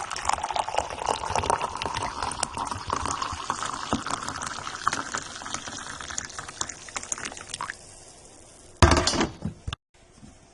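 Liquid pouring into a container. The pitch rises steadily as the container fills, and the pour stops about eight seconds in. A short loud noise comes near the end.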